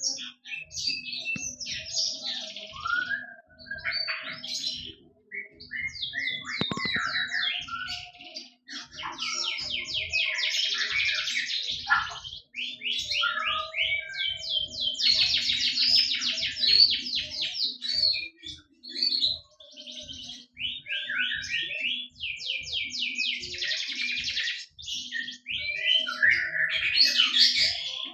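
A songbird singing a long, varied song of fast trills and rapid chattering phrases, broken by brief pauses. It is masteran song, the kind played to tutor caged songbirds.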